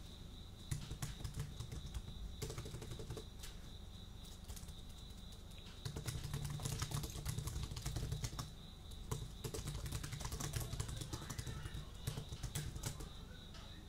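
Typing on a computer keyboard, recorded with a binaural ear microphone: runs of quick key clicks with short pauses between them, about a second in, again from about six seconds, and once more from about nine seconds to near the end. A steady high cricket trill runs behind the typing.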